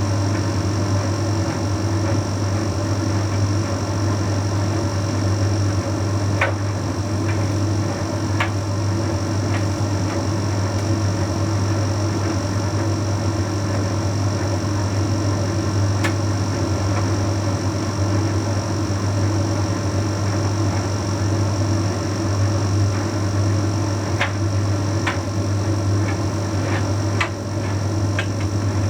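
Bosch Series 6 heat pump tumble dryer running mid-cycle on a shirts load: a steady low hum from the drum motor and heat-pump compressor, with a few light clicks here and there.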